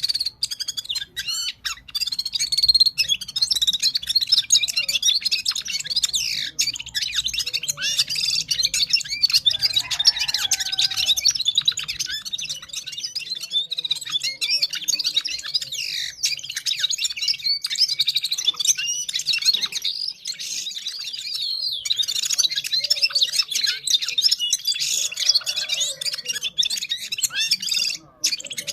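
A gulsar, the Himalayan songbird of Parachinar, singing at full power: a continuous fast stream of high chirps, whistles and warbled trills with only a couple of brief pauses.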